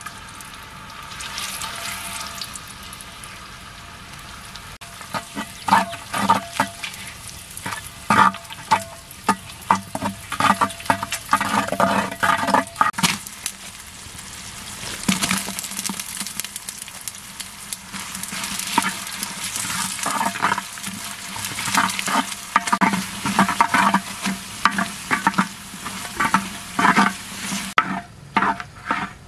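Paste and lemongrass frying in hot oil in a cooking pot, sizzling with a steady hiss. A spoon stirs and scrapes against the pot in repeated runs of clicks and scrapes.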